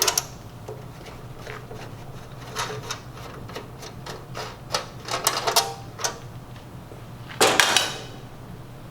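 Scattered metal clicks and taps of screws and a screwdriver on the sheet-metal underside of a Star two-sided sandwich grill as its feet and bottom-cover screws come out, with a louder burst of metal clatter about seven and a half seconds in.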